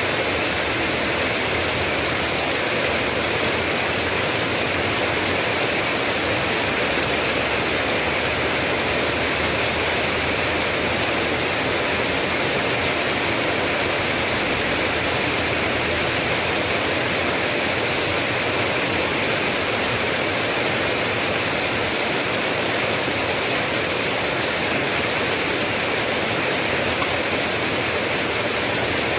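Steady rain falling, an even continuous hiss with no single drops or gaps standing out.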